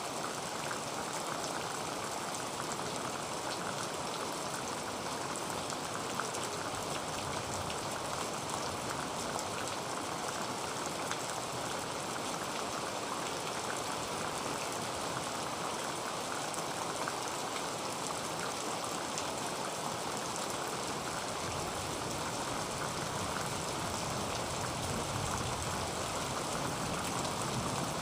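Heavy rain falling steadily on a tin roof: a dense, even patter of drops.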